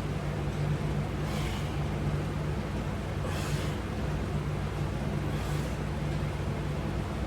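Steady low hum, with a short breathy hiss repeating about every two seconds.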